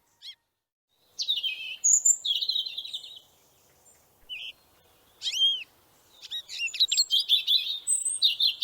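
Small birds chirping and calling in bursts: short chirps, buzzy trills and arched whistled notes, after a brief silent gap about a second in.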